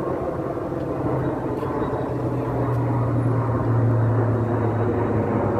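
Aircraft engine noise as a plane flies over during an air show display. It is a steady low hum that grows gradually louder.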